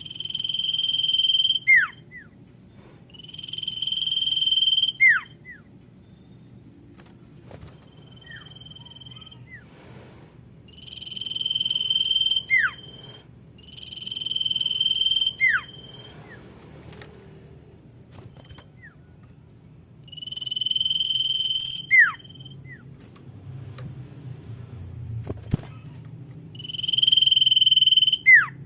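Common iora (sirtu) giving its female call: long drawn-out whistles, each held on one pitch and swelling for about two seconds before ending in a sharp downward slur. About six such calls come at uneven gaps, with a couple of fainter, shorter whistles between them, over a faint low hum.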